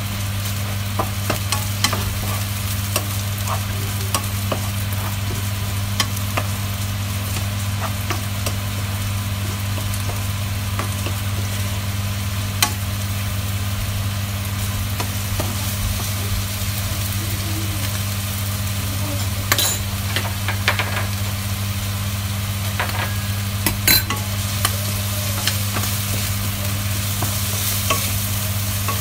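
Chopped chicken and garlic sizzling as they fry in a non-stick frying pan, with a utensil stirring and scraping through them and clicking against the pan; a couple of louder knocks come about 20 and 24 seconds in. A steady low hum runs underneath.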